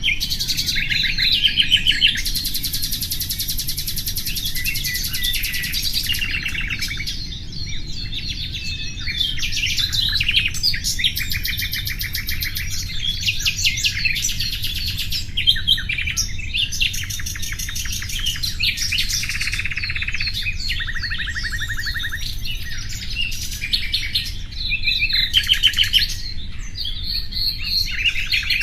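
Common nightingale singing: a continuous run of varied phrases, including long fast trills of rapidly repeated notes, over a faint steady low rumble.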